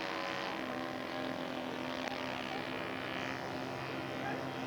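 Radio-controlled multi-engine scale model airplane flying with its propeller engines running as a steady drone; the left engine is dead and it is flying on the other two.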